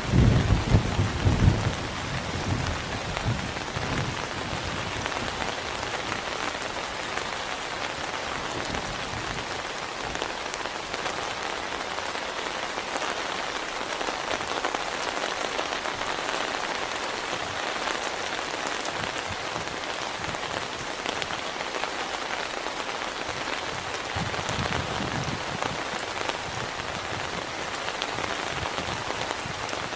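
Heavy rain falling steadily on a surface, a dense, even hiss of drops. A loud low rumble of thunder breaks through in the first couple of seconds, and a fainter one comes again near the end.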